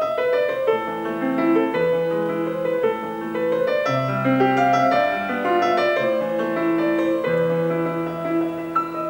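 Piano music played through a small DIY speaker as a sound test, a melody of sustained overlapping notes.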